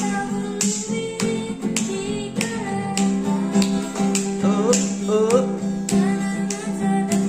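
Acoustic guitar strummed in a steady rhythm, about one stroke every 0.6 seconds, with a melody picked over the chords.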